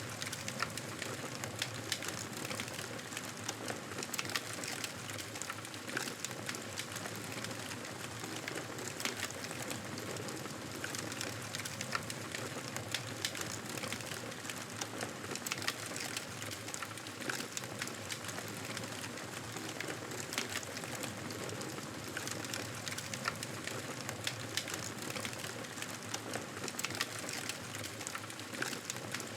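Campfire crackling: a steady hiss of burning wood with frequent small, irregular pops and snaps.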